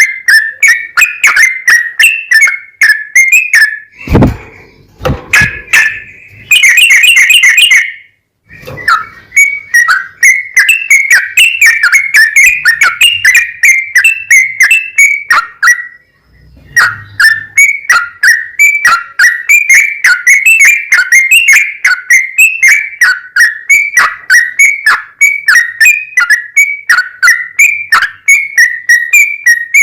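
Yellow-vented bulbul (trucukan) singing a long, lively run of short, rapid chattering notes, with brief breaks about four, eight and sixteen seconds in. There are a couple of sharp thumps about four seconds in.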